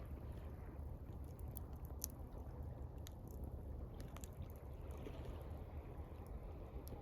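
Campfire crackling, with scattered sharp pops and snaps over a steady low wash of water.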